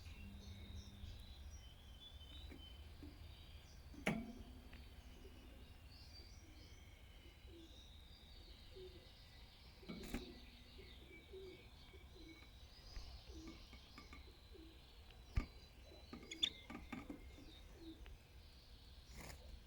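Red lipochrome canary giving faint, scattered chirps and twitters, with a low hum underneath and a few sharp clicks about four, ten and fifteen seconds in.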